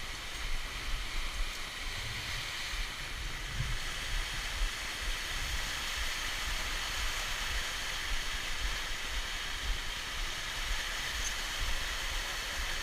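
Steady rushing of a waterfall, with an irregular low rumble underneath.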